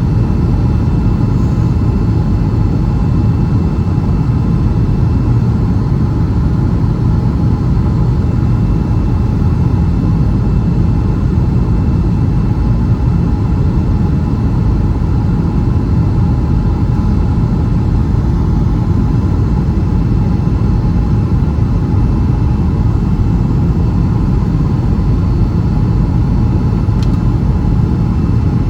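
Cabin noise inside a Boeing 757-300 on final approach: a steady low roar of jet engines and airflow, with faint steady whining tones above it.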